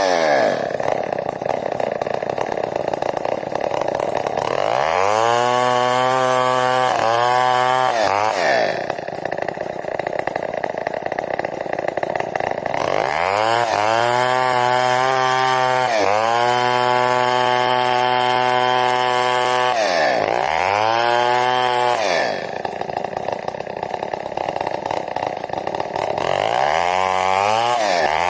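A large New West 070 chainsaw ripping timber into beams. Its engine revs up to full throttle, runs at high speed for several seconds, then drops back, three times over, and is revving up again at the end.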